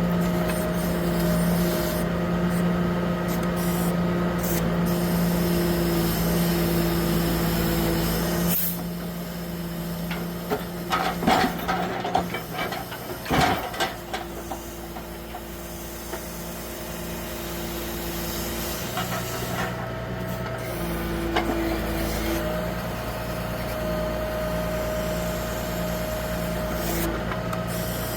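Self-loading log truck's engine running to power the log loader, a steady hum that drops off about a third of the way in. A cluster of wooden knocks from logs being handled comes around the middle, and the engine note rises again later on.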